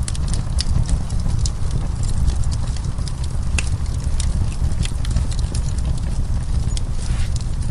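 Burning wood crackling: irregular sharp pops and snaps, some close together and some spaced apart, over a steady low rumble from the fire.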